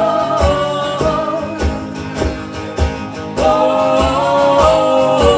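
Live song with acoustic guitar strumming over a steady low beat of about two a second. A voice holds sung notes at the start and again from about three and a half seconds in.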